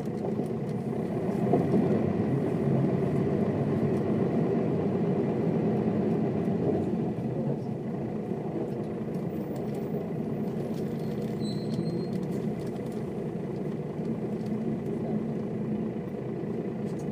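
Diesel engine of a Mercedes-Benz O407 bus running, louder for the first several seconds and then settling to a lower, steady level about seven seconds in.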